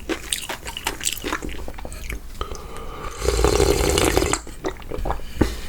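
Close-miked eating of spicy cold noodles in broth: wet chewing and lip smacks, with a louder slurp lasting about a second about three seconds in.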